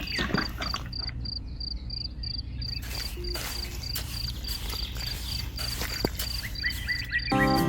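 Insects, likely crickets, chirping steadily in a high, even pulse several times a second over a low steady hum. Music comes in near the end.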